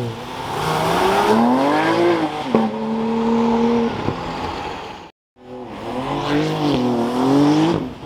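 Sports car engine revving several times, its pitch climbing and falling, with one rev held steady for about a second. The sound cuts out briefly about five seconds in.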